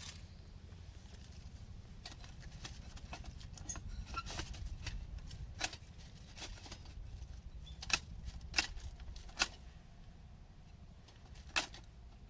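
Scattered sharp clicks and taps over a low steady rumble, with a handful of louder snaps in the second half.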